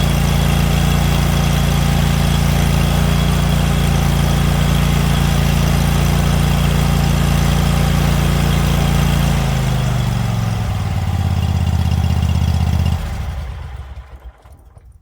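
Scag Patriot zero-turn mower's engine running steadily, then slowing to a lower pitch about ten seconds in and shut off about three seconds later. It is run with the drive levers in freewheel to bleed air from the freshly refilled hydrostatic wheel motors.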